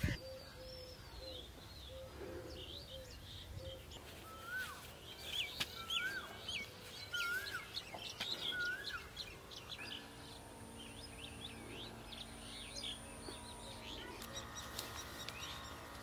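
Birds chirping and calling. Starting about four seconds in, one bird repeats a short whistled up-and-down note four times about a second apart, among quick higher chirps. A faint steady hum comes in during the second half.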